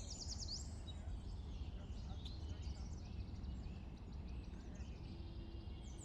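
Small birds chirping in quick sweeping calls over a steady low outdoor rumble.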